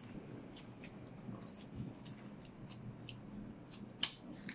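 Faint chewing of sushi and kimbap, with small wet mouth clicks scattered throughout and one sharper, louder click about four seconds in.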